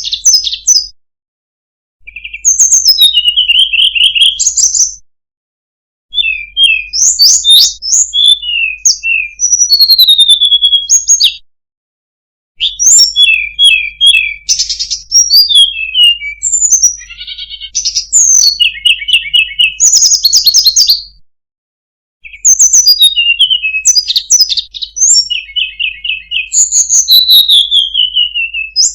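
Tledekan gunung singing its song: fast, varied, high-pitched phrases of chirps, rapid trills and sweeping whistles, delivered in several long bouts separated by brief silences.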